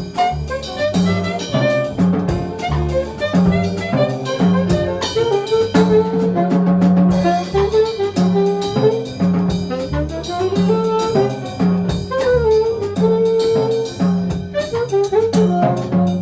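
Jazz quartet playing a medium-tempo tune: a horn line moves over a bass line and drum kit with steady cymbal strokes.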